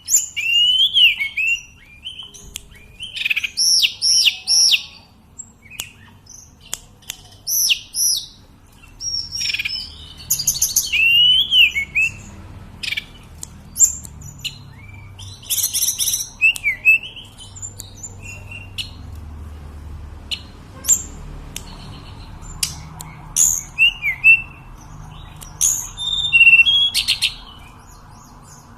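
Hill blue flycatcher (tledekan gunung) singing: bursts of clear, high whistled notes that rise and fall, some phrases repeating the same arched note three or four times, with sharp ticking call notes between phrases.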